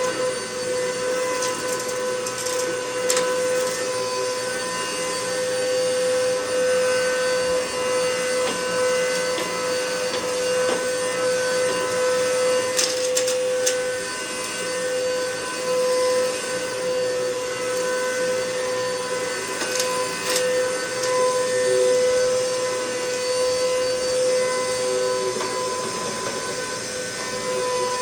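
Hoover MaxLife upright vacuum cleaner running steadily with a high motor whine while picking up test dirt, with a few brief rattles of debris going up the hose.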